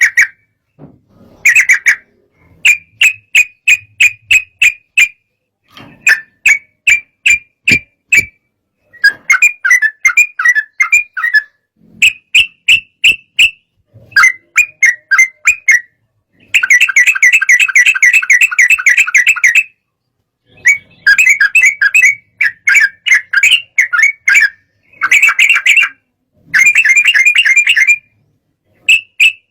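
Yellow-vented bulbul (trucukan) in agitated song: loud phrases of rapid, bubbling chirps, each one to three seconds long with short pauses between, and one longer unbroken phrase about halfway through.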